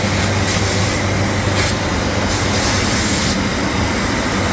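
Biesse Akron 850 edgebanding machine running, a steady low hum, with a high hiss that cuts in and out several times.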